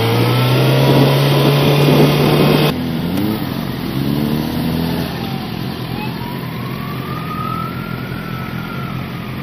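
Sport motorcycle engine pulling in gear under the rider, its pitch rising steadily with wind noise for about two and a half seconds, then cutting off abruptly to a lower, quieter engine note and steady road noise.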